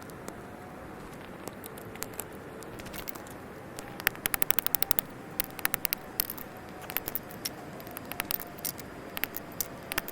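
Wood fire crackling over a steady hiss, with a quick run of sharp pops about four seconds in and scattered snaps after.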